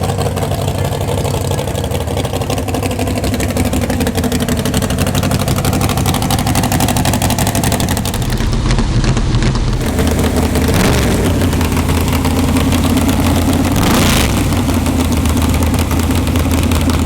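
Race car engine idling loudly and steadily, with a short rev rising and falling about two-thirds of the way through.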